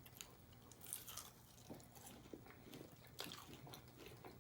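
Faint close-up mouth sounds of a person chewing fried chicken strips and fries: soft wet smacks and small clicks, a few scattered through the stretch.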